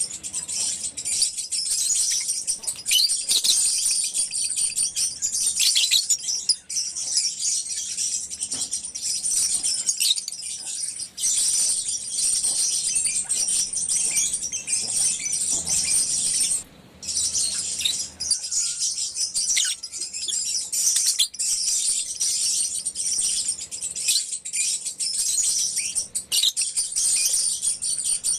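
A colony of lovebirds chirping continuously: many high-pitched chirps overlapping into a dense chatter that drops out for a moment just past halfway.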